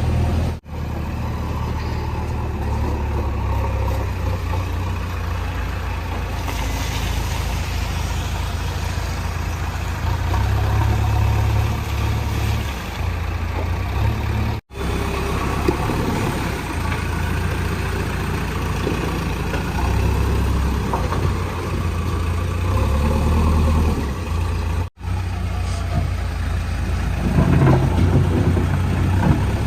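JCB 3DX backhoe loader's diesel engine running while it digs, its low rumble swelling and easing with the load. The sound breaks off for an instant three times.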